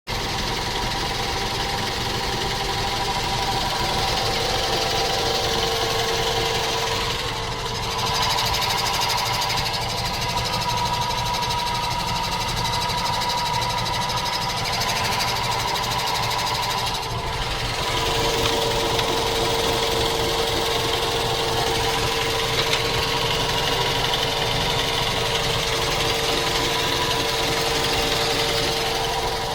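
Mazda 3 2.0-litre engine running with a steady mechanical noise laid over it, its note shifting briefly about 7 and 17 seconds in: an extraneous noise whose source the owner cannot identify.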